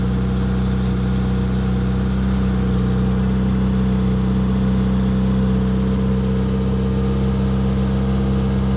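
1962 Austin-Healey Sprite Mk II's BMC A-series four-cylinder engine idling steadily just after a cold start, holding an even pitch.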